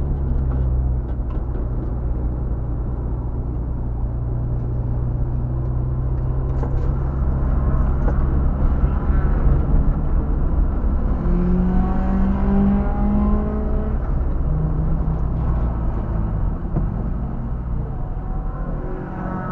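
Car engine running steadily at low revs, heard from inside the cabin with road and tyre noise. A higher tone rises over it briefly about halfway through. Near the end the engine note drops as the car slows.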